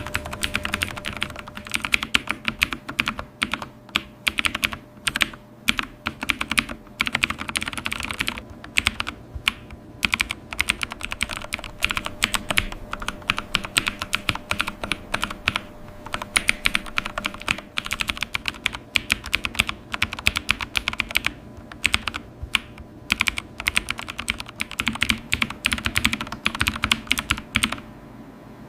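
Continuous typing on a computer keyboard: a rapid, uneven stream of key clicks with brief pauses between bursts.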